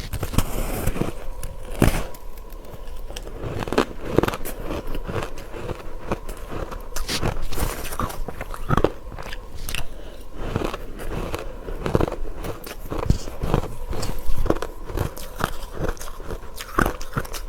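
Close-miked biting and chewing of matcha-powdered ice: a run of irregular crisp crunches, several every couple of seconds, between softer grinding chews.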